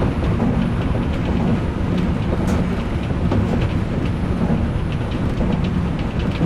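Odakyu electric commuter train running along the track: a steady low rumble with light, irregular clicks from the wheels on the rails.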